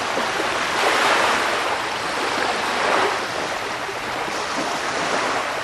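Sea surf: a continuous wash of breaking waves, swelling twice as waves come in.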